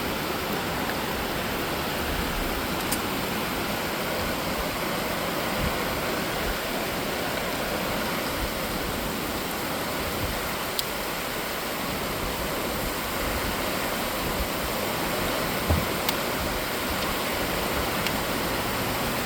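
Steady rain falling at night, an even hiss with a few sharp drip ticks scattered through it and a small thump near the end.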